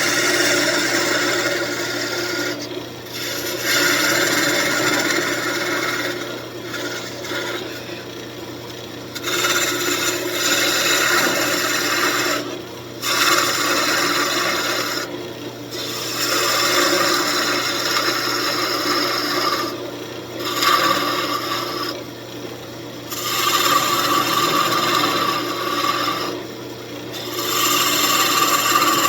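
Walnut spinning on a wood lathe with a tool or abrasive held against it, scraping in passes of a few seconds separated by short breaks, over the lathe's steady motor hum.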